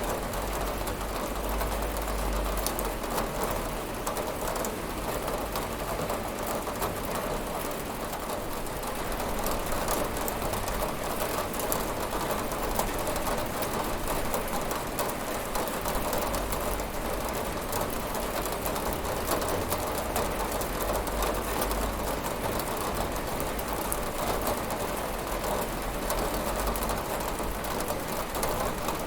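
Steady rain falling on a window: a dense, even patter of drops.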